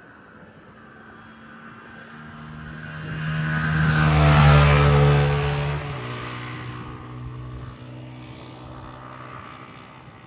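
Airbus A321-231 jet airliner with IAE V2500 turbofans at takeoff thrust, passing by. The engine roar swells to a peak about four to five seconds in. Around six seconds the engine tone drops in pitch as the aircraft goes past, and the roar then fades.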